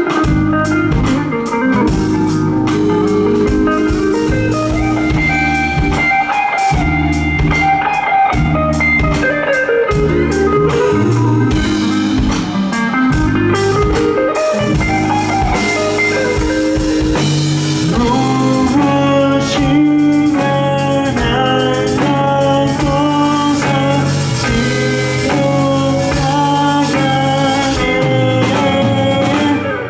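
Live rock band playing an instrumental passage: a guitar lead line with sliding, bending notes over bass and drum kit. From about 18 seconds in it changes to evenly repeated chords.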